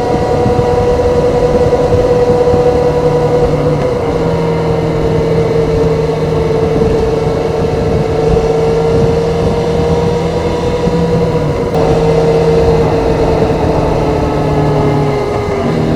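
Kawasaki ZZR400's stock inline-four engine and exhaust running at steady, high, even revs under way, its pitch dipping slightly near the end.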